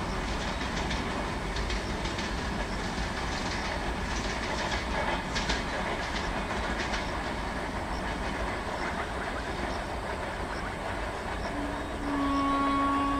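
Express passenger train running past on the rails: a steady rumble with wheel clatter. Near the end a train horn sounds one long steady note.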